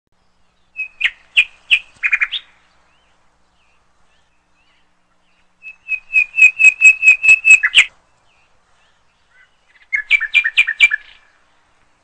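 A bird calling in three quick runs of sharp, high repeated notes: one about a second in, a longer one in the middle, and a shorter one near the end, with silence in between.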